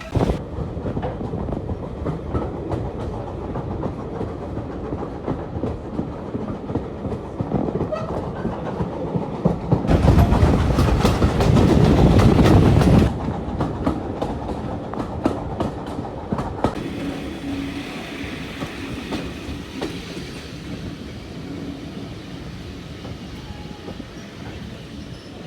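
A train running along the rails, its wheels clicking over the rail joints. About ten seconds in, a louder rushing stretch lasts about three seconds, then it drops back to the steady running.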